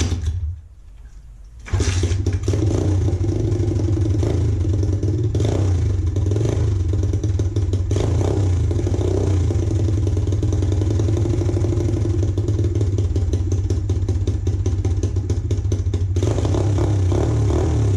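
Small pit bike engine, its carburetor freshly cleaned, catching about two seconds in and then running steadily, with a few rises in speed.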